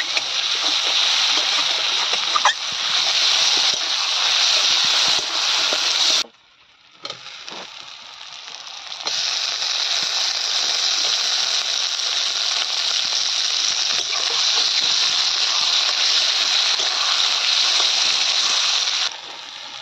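Sliced onion, bay leaves and green chillies sizzling in hot oil in a metal kadai, stirred with a metal spatula, with a few sharp scrapes and knocks. The sizzle cuts out about six seconds in, stays quieter for a couple of seconds, then returns loud around nine seconds in, as tomato wedges go into the pan.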